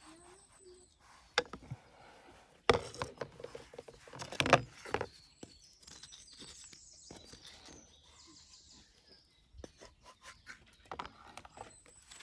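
Small birds chirping in a forest, with a quick high trill partway through, over scattered knocks and rustles that are loudest a few seconds in.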